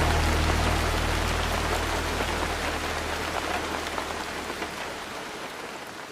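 Steady rain falling, with scattered drops tapping, slowly fading out. A low held note left over from the music dies away during the first few seconds.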